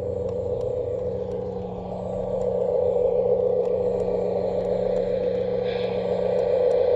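Garden-scale model locomotive running on its track: a steady motor-and-gear hum with faint ticking from the wheels, growing louder about two and a half seconds in.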